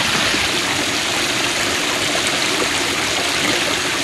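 Creek water running steadily over rocks, an even rushing noise.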